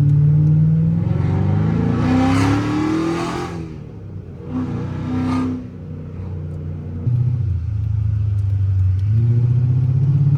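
Chrysler 300C's 5.7-litre HEMI V8 heard from inside the cabin with the windows up, accelerating with a rising engine note, then easing off in the middle before building again near the end.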